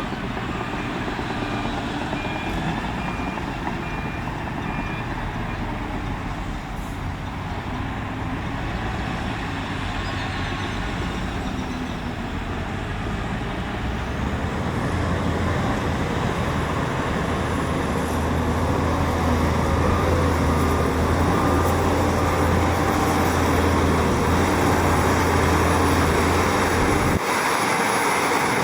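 Heavy diesel engine of earthmoving machinery running, growing louder from about halfway through. A reversing alarm beeps in the first few seconds.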